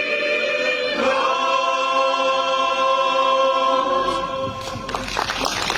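Choir singing a Ukrainian carol, holding the final chord, which changes once about a second in and breaks off near the end. Applause follows.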